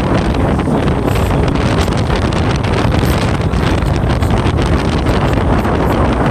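Strong hurricane wind blowing steadily and buffeting the microphone.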